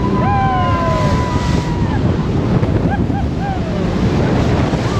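Jet boat running through rough, churning tidal water, with wind buffeting the microphone. Voices cry out in long high calls over it in the first two seconds, and briefly again about three seconds in.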